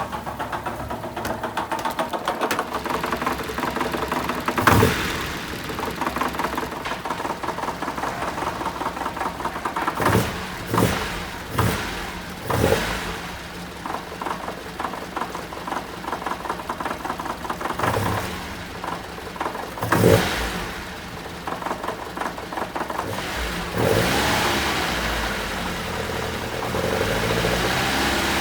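Toyota TE27 Trueno's 2T-G 1.6-litre twin-cam four with Solex carburettors idling, blipped sharply on the throttle about eight times, then held at higher revs near the end. The engine is being run to show an abnormal engine noise.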